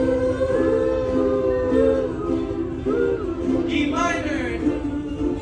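Ukuleles strumming chords while voices sing a melody along with them.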